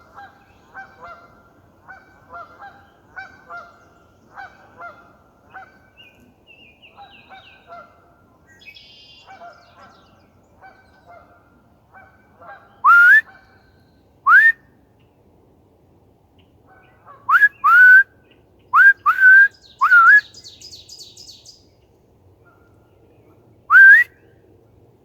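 Geese honking repeatedly in the background, about one to two honks a second. Halfway through, a man whistles loudly close by: a series of short, rising whistle notes, with a faint burst of high bird chirps between them.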